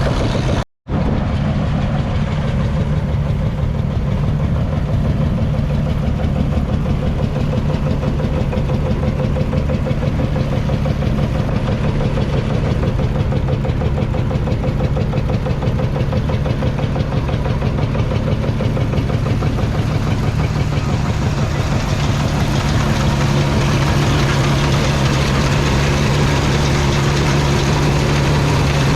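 Single-cylinder two-stroke diesel engine of a Field Marshall Series 3 tractor running steadily with a fast, even beat. The sound cuts out for a moment just under a second in.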